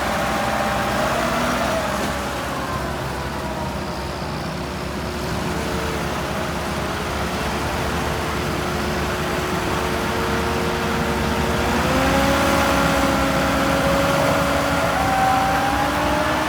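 Heavy tractor engine running under load, its pitch wavering and stepping up about twelve seconds in as the revs rise.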